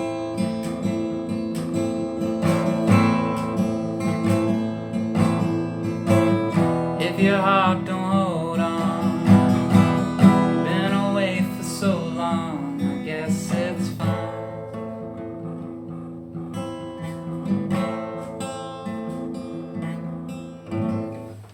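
Acoustic guitar strumming the closing chords of a song, with a wavering melody line over it in the middle. The music fades toward the end.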